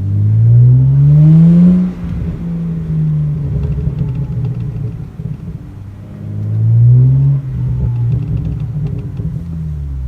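BMW E90 335i's turbocharged straight-six, running through a muffler-deleted exhaust, accelerating hard twice with rising pitch; each pull cuts off abruptly at the shift or lift-off and is followed by rumbling with crackles and pops on the overrun.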